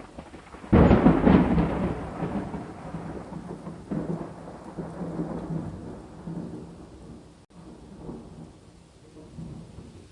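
A thunderclap breaks under a second in and rolls into a long rumble that swells again about four seconds in, then slowly dies away, over steady rain.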